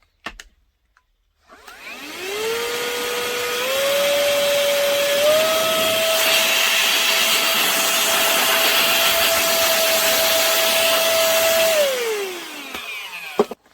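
Tiazhan cordless mini vacuum-blower's small electric motor spinning up with a rising whine and rush of air, stepping up twice through its three speed settings, running steadily at top speed, then switched off and winding down near the end.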